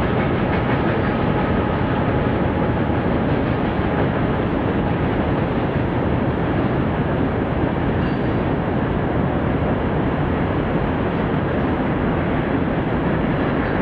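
A diesel-hauled freight train running by, a steady, even rumble of locomotive engines and wheels on rail that holds level throughout.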